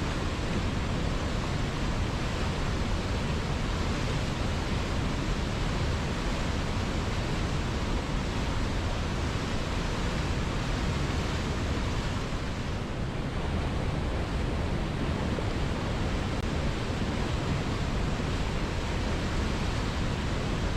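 River water flowing and rushing, a steady even wash with no breaks, dipping slightly in its higher hiss about two-thirds of the way through.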